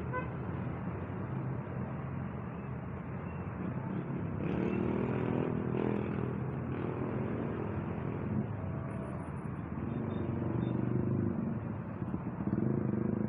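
Road traffic passing: a steady rumble of vehicle and motorcycle engines, with louder passes about four and a half seconds in, around ten seconds, and again near the end.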